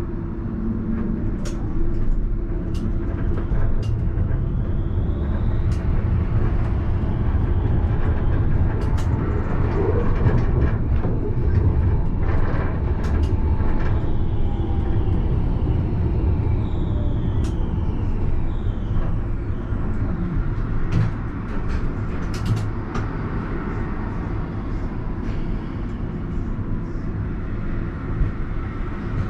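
Alstom Citadis tram running along the line, heard from the driver's cab: a steady rumble of wheels on rail with scattered clicks and a faint whine that rises and falls.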